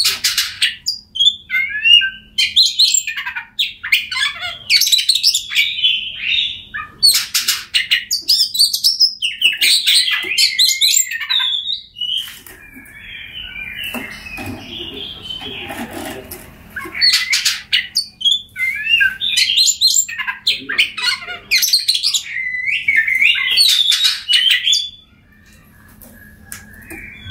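Oriental magpie-robin (kacer) singing loudly in rapid, varied phrases of whistles, trills and harsh chatter, with a quieter stretch about halfway through and a short pause near the end.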